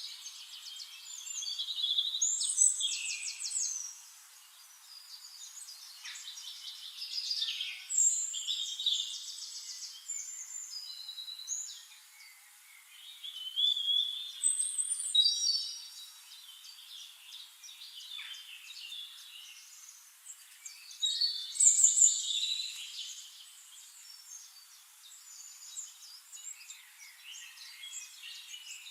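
Forest birds singing and calling over one another, high whistles and fast trills coming in waves, loudest about two, eight, fourteen and twenty-two seconds in.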